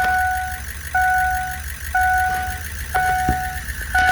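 Ford E450 dashboard warning chime sounding with the key on and the engine not yet running: a steady beep repeating about once a second.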